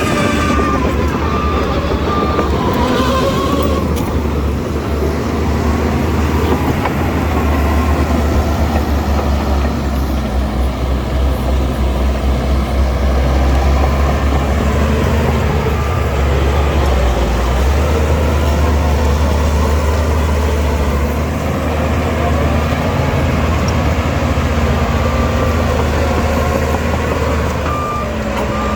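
Shantui DH17C2 bulldozer's diesel engine running steadily as the machine pushes dirt. A reversing alarm beeps near the end.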